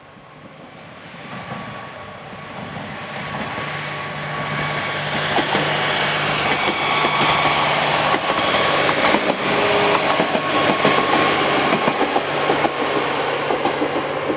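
Diesel railcar approaching and passing, its engine drone growing louder over the first few seconds. Wheels clatter over the rail joints through the middle, and the sound eases off slightly near the end.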